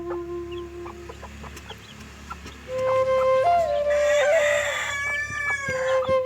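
A rooster crows once, from about four seconds in for under two seconds, over steady flute music.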